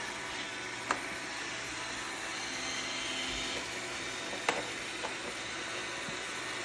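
Roomba robot vacuum running with a steady whir, with a sharp knock about a second in and two more around four and a half and five seconds.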